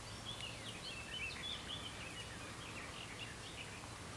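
A songbird singing faintly, a run of short chirps and warbles, over steady outdoor background noise.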